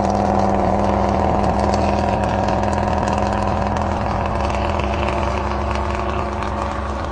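Old Mercedes-Benz 1513 truck's diesel engine running at a steady pitch, slowly getting quieter.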